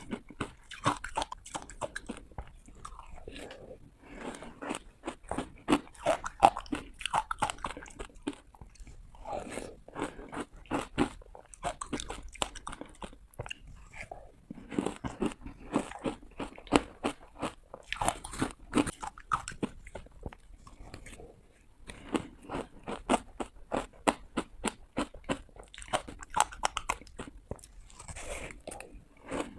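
Close-miked biting and crunching of hard ice: clusters of sharp cracks and crunches as the ice is bitten and broken between the teeth, coming in runs a few seconds long with short pauses between them.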